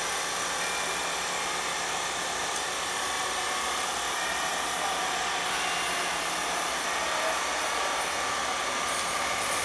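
Approaching MBTA commuter train led by an MPI HSP46 diesel locomotive: a steady roar and rail hiss that grows slowly louder as it nears.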